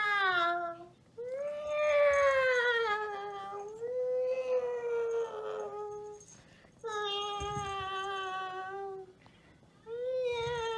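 A series of about four long, drawn-out howling notes, each wavering and sagging in pitch toward its end, with short pauses between them.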